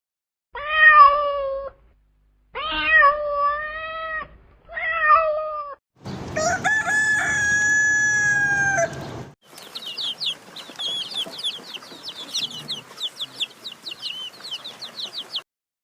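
Animal calls cut one after another: three short meowing calls, then a rooster crowing once, long and steady, then rapid high peeping of chicks, several peeps a second.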